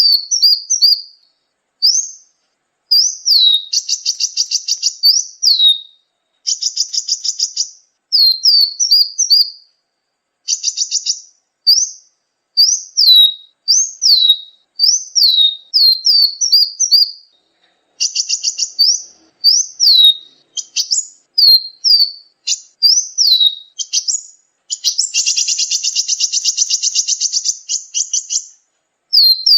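Sunbird (kolibri ninja) song: a run of high, sharply rising-and-falling whistled notes, broken by fast buzzy trills, the longest about three seconds near the end.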